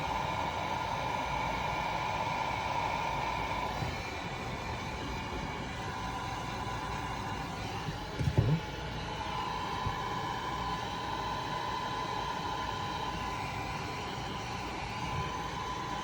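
Electric heat gun running steadily, a fan whine with a rushing blow, as it shrinks heat-shrink tubing over crimped battery-cable lugs. A couple of light knocks come about eight seconds in.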